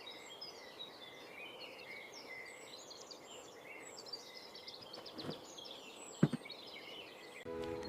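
Outdoor ambience of many small birds chirping and twittering over a faint background hiss, with two sharp knocks about five and six seconds in, the second the loudest.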